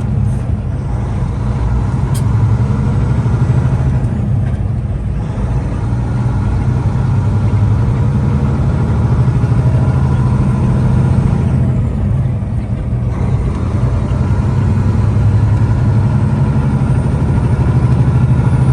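Truck engine running with a steady low drone and road noise while driving.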